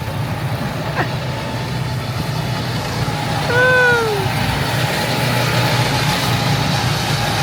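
Go-kart engines droning steadily as the karts run on the track, with a short rising-and-falling call about three and a half seconds in.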